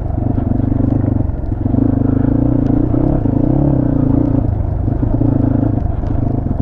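250 cc motorcycle engine running steadily under way, its pitch wavering slightly with the throttle.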